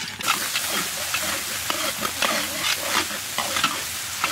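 Sliced shallots and red chili paste frying in hot oil in a large metal wok. The sizzling starts suddenly just after the start, and a metal spatula scrapes and stirs against the wok again and again.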